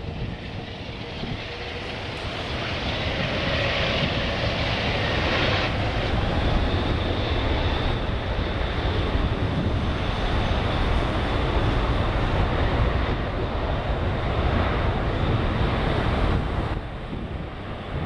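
Airbus A380-800's four Rolls-Royce Trent 900 turbofans at takeoff power: a loud, steady jet roar that builds over the first few seconds and then holds, with a faint high whine above it.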